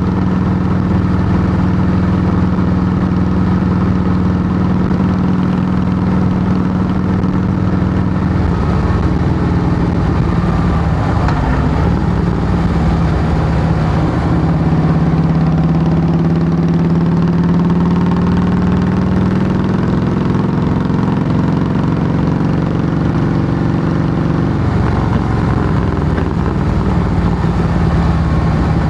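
Harley-Davidson Heritage Softail's V-twin engine running through Samson fishtail true-dual exhaust pipes. It holds a steady note at first, shifts and dips in pitch from about nine seconds in, runs a little higher for several seconds, then settles lower again near the end.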